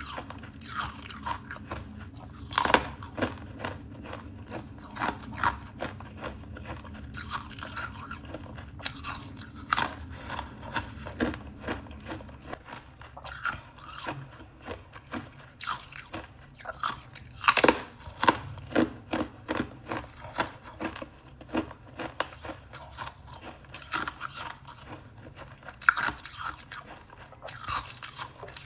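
Close-up crunching and chewing of crisp tea crackers with a little frost on top: a few loud, sharp bites among quick runs of crackling chews.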